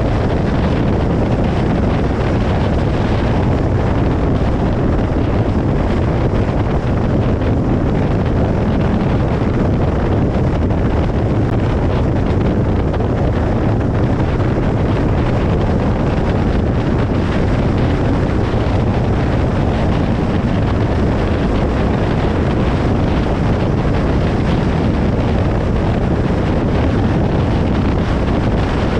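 Steady road noise of a car travelling on a highway: an even, low tyre and wind rumble with no changes or passing vehicles standing out.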